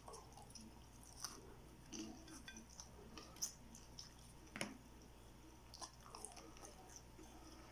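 Faint close-up chewing and mouth sounds of a person eating, with scattered soft clicks and smacks; one sharper smack about four and a half seconds in.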